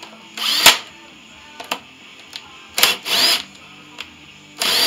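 Power driver ('gun') spinning oil pan bolts into a Briggs & Stratton V-twin engine in three short bursts, each a rising whine, with small clicks between.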